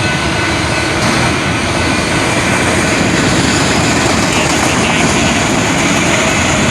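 Train passing close by: the steady, loud rolling noise of rail cars going over the track, unbroken throughout.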